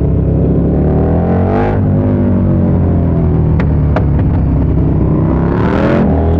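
KTM Super Duke 1290 R's V-twin through an Austin Racing V3 150mm exhaust, accelerating hard: the engine note rises, breaks at an upshift about two seconds in, then rises again to a second upshift near the end. Two sharp pops come in between.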